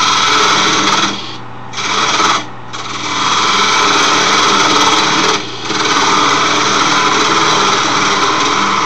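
Wood lathe running with a turning tool cutting into a spinning wooden file handle to mark where its end will be cut off. The cutting makes a loud, steady scraping hiss that stops briefly three times, over the lathe motor's steady hum.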